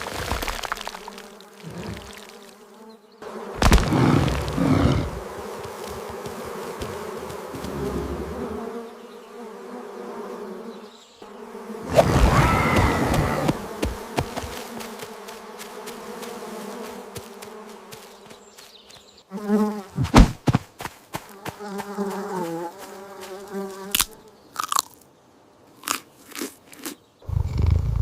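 Steady insect-like buzzing, broken by several sudden knocks and louder noisy stretches.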